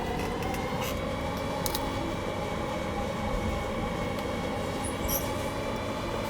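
Blower fan of electronics rework heating equipment running steadily: a rushing air noise with several steady whining tones over it, and a couple of faint light clicks.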